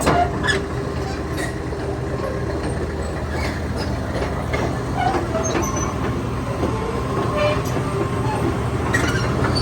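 Hitachi ZX330LC-3 excavator's diesel engine running steadily, with a few light clicks and clanks.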